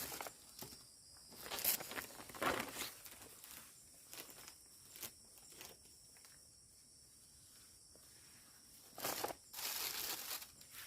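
Irregular rustling and crackling, in two louder spells about two seconds in and near the end, with a few sharp clicks, over a faint steady high-pitched hum.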